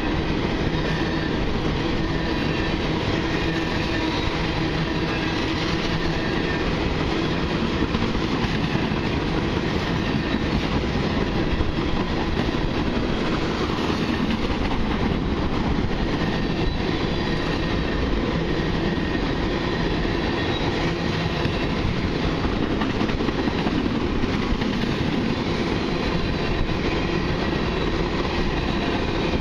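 A long freight train of empty crude oil tank cars rolling past at speed, with a steady clatter of wheels on the rails.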